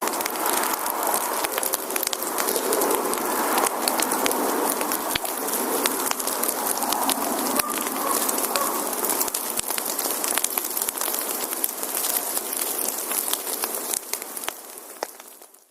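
Wood fire burning, with a dense crackle and many sharp pops from the burning logs. It fades out just before the end.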